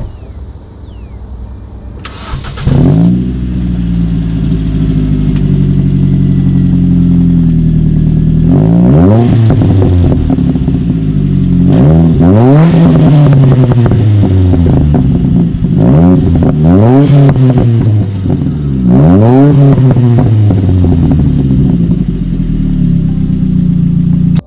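A modified four-cylinder car engine with an aftermarket performance exhaust fires up about two and a half seconds in, flares and settles to idle, then is revved four times, dropping back to idle after each blip.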